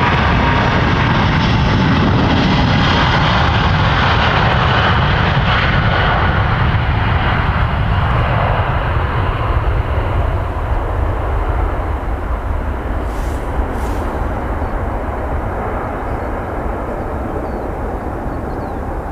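Airbus A350 jet airliner's Rolls-Royce Trent XWB turbofan engines, a loud rumble that slowly fades as the aircraft moves away, the high hiss dying first from about halfway.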